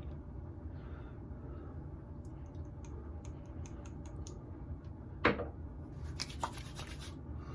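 Faint light clicks and ticks from small objects being handled, with one sharper tap about five seconds in, over a low steady room hum.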